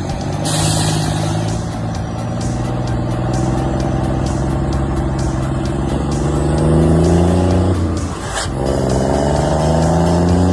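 Scania R 450 truck's diesel engine pulling under acceleration, its note climbing steadily. It dips briefly about eight seconds in, then climbs again.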